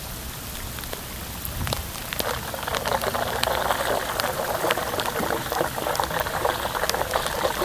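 Floodwater swirling and gurgling in a small whirlpool, a dense bubbling that grows louder about two seconds in.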